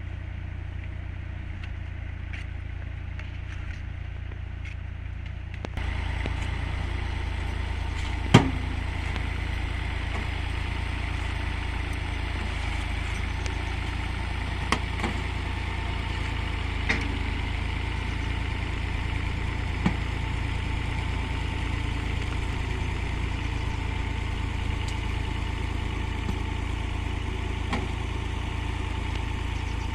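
An engine running steadily, as if idling. It gets louder about six seconds in, and a few sharp knocks sound over it.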